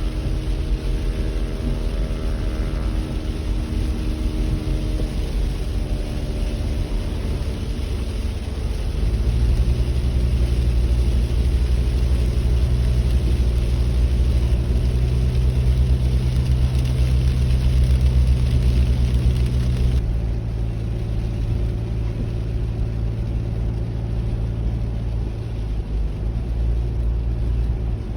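Car driving, a steady low rumble of engine and road noise that grows louder about a third of the way in.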